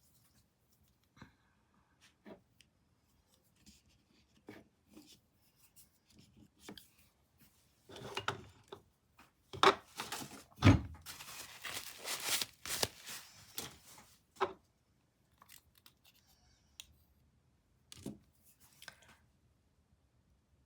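Small clicks and knocks of painting supplies being handled, with a busier stretch in the middle of sharp knocks and rustling, scraping noise.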